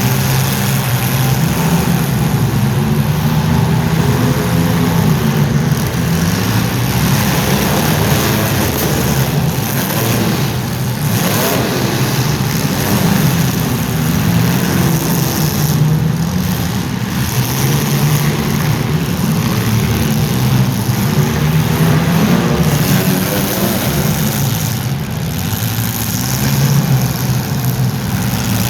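Engines of several welded compact demolition-derby cars running and revving hard together, rising and falling in pitch.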